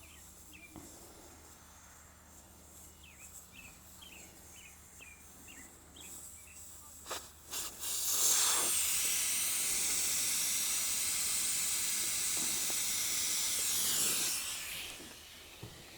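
Air hissing steadily out of an old tractor tire through its opened valve stem. The hiss starts about eight seconds in after a few clicks, then tapers off over about six seconds as the little pressure left in the tire runs out.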